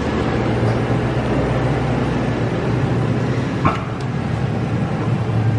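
Steady low mechanical hum with an even hiss, and a brief short rising squeak a little before four seconds in.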